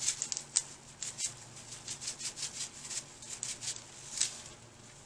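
Short, irregular crackles and ticks from wild mushrooms cooking in a small pot, several a second with a few sharper ones.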